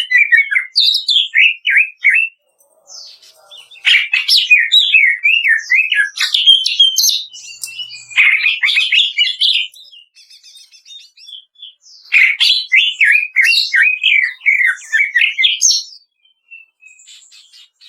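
Cucak ijo (greater green leafbird) singing loud, rapid phrases of sharp down-slurred notes, the rough crackling 'kretekan' style, in bursts of a few seconds with short pauses between. Only faint scattered notes near the end.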